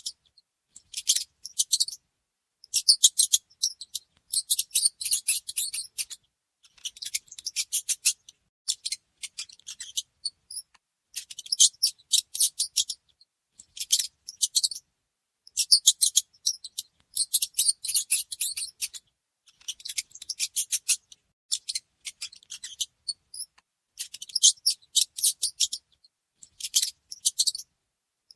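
Mouse squeaks: rapid high-pitched chirping clicks in bursts of a second or two, with short silent gaps between them.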